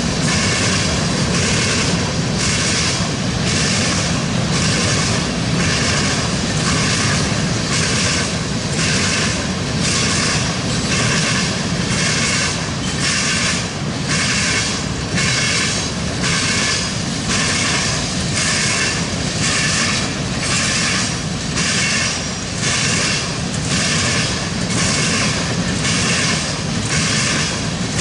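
Freight train of tank cars rolling past at speed, its steel wheels clacking over the crossing diamonds in a steady rhythm of a little over one beat a second.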